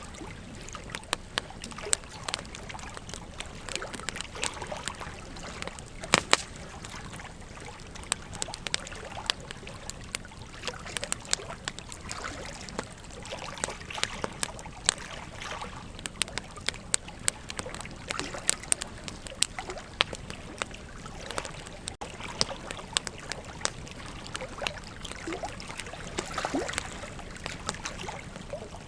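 Wood fire crackling, with frequent sharp irregular pops, over the steady rush of a flowing river.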